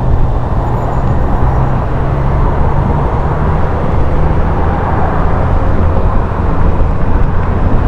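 Motorcycle running steadily at road speed: a constant low engine drone mixed with rushing wind noise.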